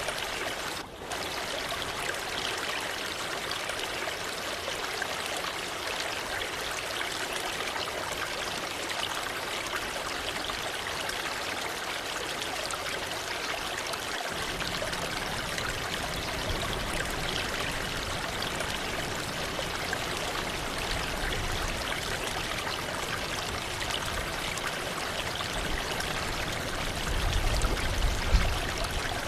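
Waterfall: water rushing and splashing steadily. A low rumble comes in about halfway through, with a few louder low swells near the end.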